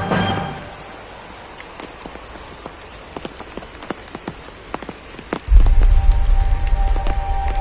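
Steady rain falling, with individual raindrops ticking sharply and close. About five and a half seconds in, a loud low rumble comes in suddenly and keeps going.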